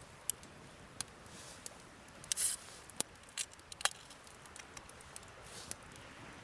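Wood campfire crackling, with scattered sharp pops and a brief hiss about two and a half seconds in.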